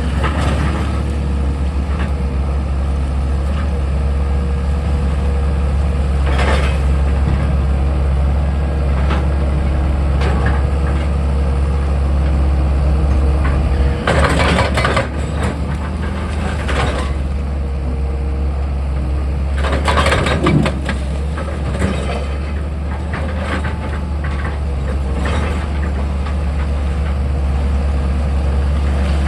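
Excavator's diesel engine running steadily with a deep hum, broken by irregular clanks and scrapes of machinery at work.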